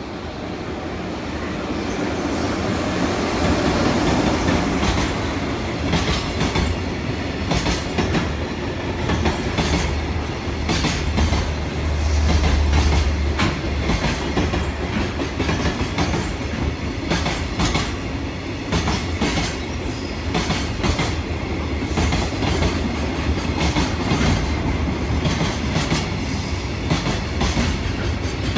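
Freight train passing close by: it grows louder over the first few seconds, then a long line of wagons rumbles past, its wheels clacking over the rail joints again and again.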